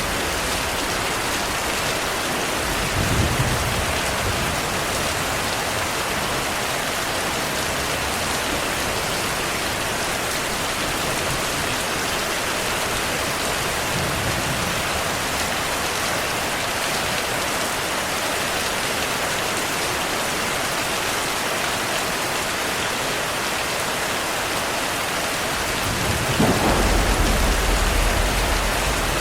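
Steady heavy rain with rolls of thunder: a short low rumble about three seconds in, a faint one midway, and a longer, louder roll near the end.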